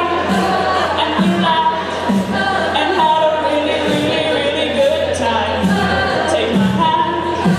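A cappella group singing a wordless backing passage: held vocal chords over a pulsing sung bass line, with a steady beat from vocal percussion.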